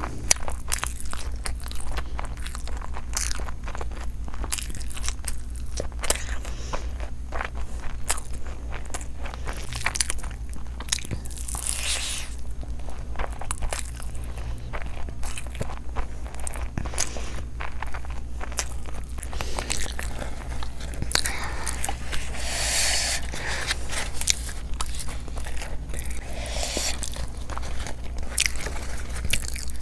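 Close-miked chewing of handfuls of egg biryani, with wet lip smacks and mouth clicks coming every fraction of a second and a few louder stretches of crunching. A steady low hum runs underneath.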